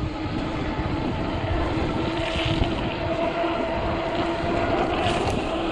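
Fat-tire electric bike at full throttle: a steady whine from the 48-volt hub motor over wind on the microphone and tyre noise through slush.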